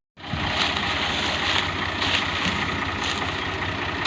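Tractor diesel engine running steadily with a low, even pulse.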